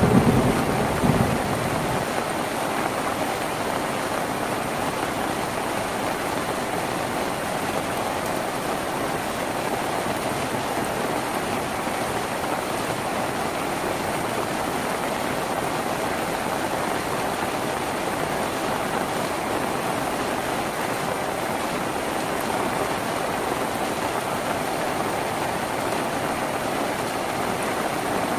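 Steady rain drumming on a tin roof, with the tail of a thunder rumble dying away in the first second or two.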